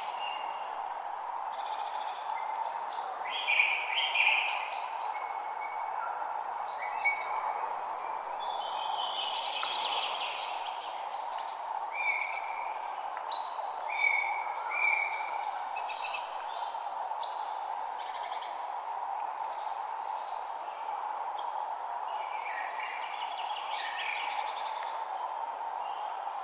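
Several songbirds singing and calling, overlapping short chirps and whistled notes coming every second or so, over a steady background hiss.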